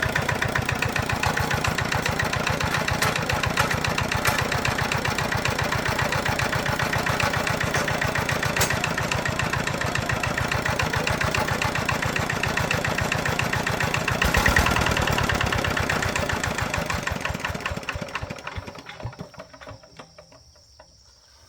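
Tractor engine running with a steady, fast firing rhythm. It swells briefly about two-thirds of the way through, then fades away over the last few seconds.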